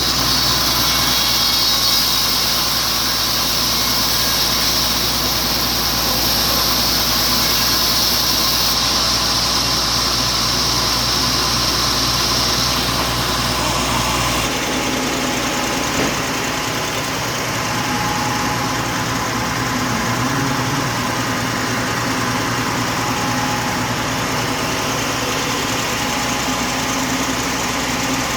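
Sawmill machinery running steadily, a loud mechanical drone with steady tones through it; about halfway through the sound changes abruptly, the low rumble dropping away.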